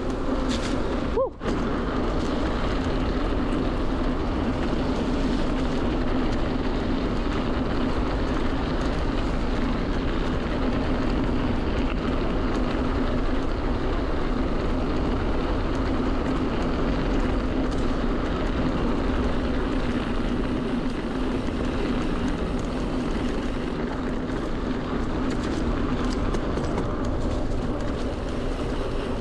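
Steady riding noise from an e-mountain bike with a Bafang BBSHD mid-drive motor: wind and tyre noise with a steady motor hum. The sound cuts out for an instant about a second in.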